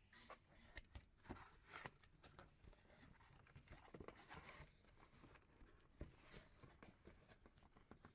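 Near silence with faint, irregular clicks and rustles, a few slightly louder ones about a second and two seconds in and around four and six seconds in.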